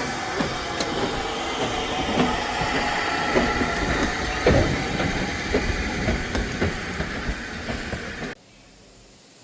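Heritage railway train passing close by, its wheels clattering over the rail joints with sharp knocks. The sound cuts off abruptly about eight seconds in, leaving a quiet hiss.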